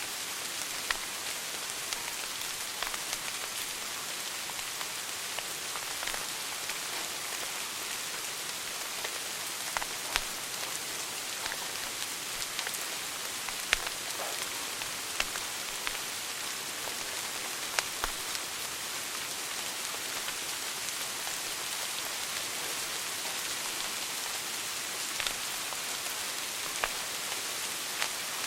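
Wood fire burning in a fireplace: a steady hiss with irregular crackles and pops, a handful of them sharper and louder than the rest.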